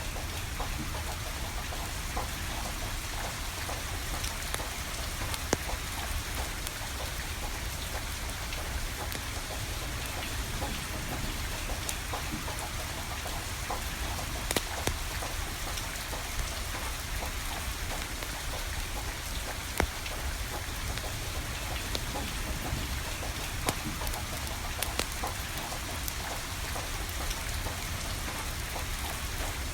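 Steady rain falling, with a few sharp pops from a burning wood fire crackling through it.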